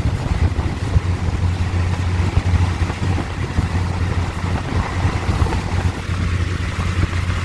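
Train running along the track, heard from on board as a steady low rumble.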